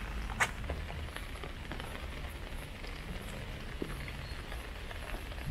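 Steady rain falling, with scattered drops tapping close by and one louder tap about half a second in.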